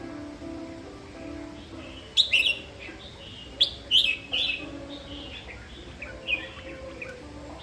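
Red-whiskered bulbul singing: short, loud chirped phrases, a cluster about two seconds in, another around three and a half to four and a half seconds, and a single one near six seconds.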